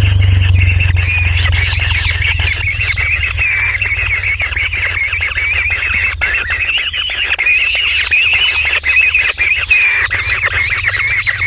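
Dense outdoor chorus of birds chirping over a steady insect drone, a high tone that pulses evenly.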